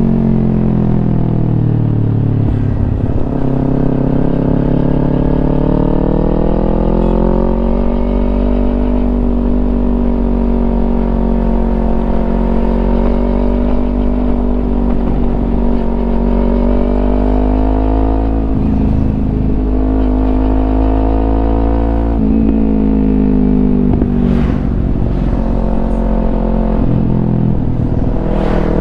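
Kawasaki Ninja 250 engine running through a Yoshimura aftermarket exhaust. Its note falls and rises in pitch several times, and there are a few short sharp sounds near the end.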